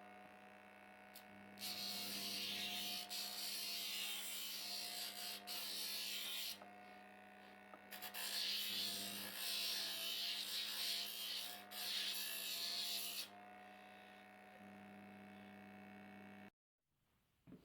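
Electric disc sander running with a steady hum, with a handle of softwood framing timber pressed against the disc twice for several seconds at a time, giving a loud sanding noise as its edges are eased over. The sound cuts off suddenly near the end.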